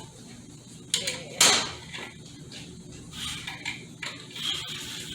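A metal hand tool scraping and clicking against metal parts inside a Ford AOD automatic transmission being taken apart, with a sharp clank about a second and a half in.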